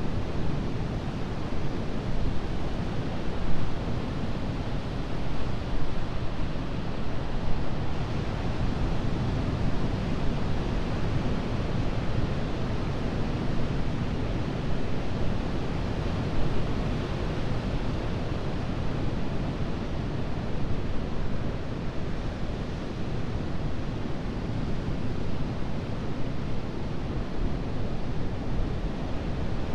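Atlantic ocean surf: waves breaking and washing ashore in a continuous, deep rushing noise that swells and ebbs slightly.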